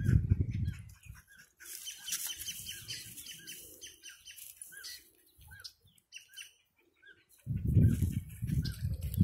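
Small birds chirping repeatedly in short high notes, a few a second. Wind rumbles on the microphone in the first second and again from about three-quarters of the way in, louder than the birds.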